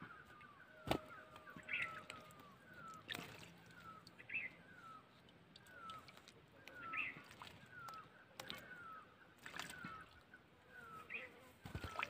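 Faint bird calls: a short falling note repeated about twice a second, with a higher note about every two and a half seconds, and a few scattered soft taps.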